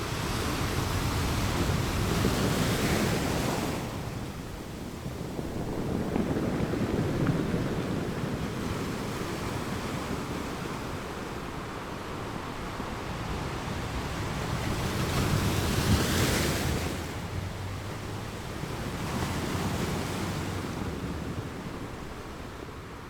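Ocean waves breaking on a rocky beach, a steady rush of surf that swells and falls back in about four surges, the loudest about two-thirds of the way through.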